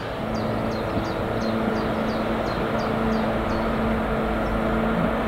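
Steady hum of a freight train and its locomotive on electrified main-line track, with a second locomotive hauling container wagons approaching in the distance. A bird chirps a quick run of short falling notes, about three a second, over the first few seconds.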